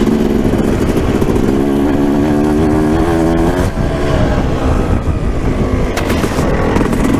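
2006 Suzuki RM250 single-cylinder two-stroke engine running as the bike is ridden, its pitch wavering up and down.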